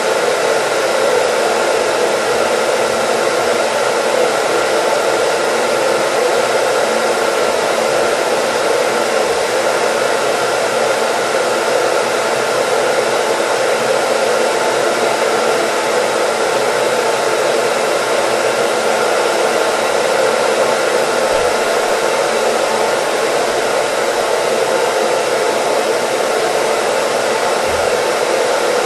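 Hair dryer running steadily, a constant even whoosh of blown air and motor noise played as white noise.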